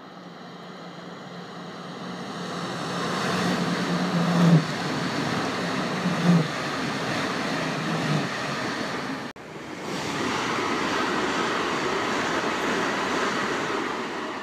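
Passenger train passing at speed on an electrified main line: a rush of wheel and track noise builds as it approaches and runs beneath, with a low steady hum under it. It breaks off abruptly about nine seconds in, and a second passing train's steady rush follows.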